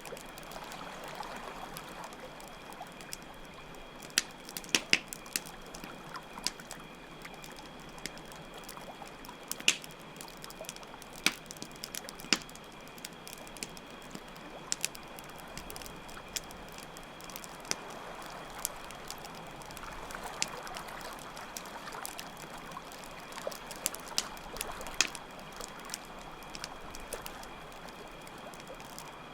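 Campfire crackling with irregular sharp pops, over steadily running water and a constant high chirring of crickets.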